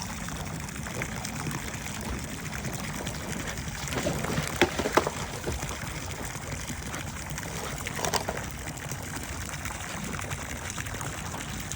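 Steady rush of running water, with a few sharp clicks or knocks about four to five seconds in and one more near eight seconds.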